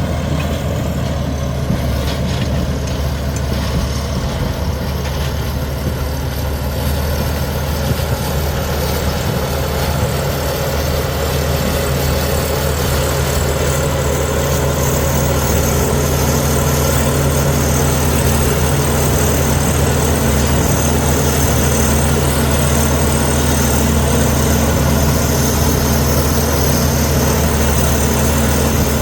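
Komatsu D61EX bulldozer's diesel engine running steadily, growing somewhat louder about halfway through.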